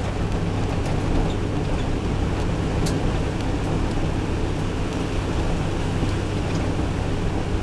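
A 1600 cc naturally aspirated two-wheel-drive rally car's engine running at a steady speed with no gear changes, mixed with tyre and road noise, heard inside the stripped cabin.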